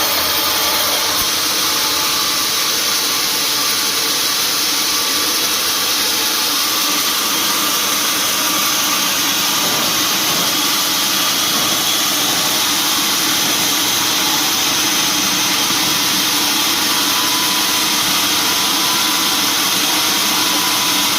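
Sawmill machinery running steadily: a loud, even motor noise that does not change in level.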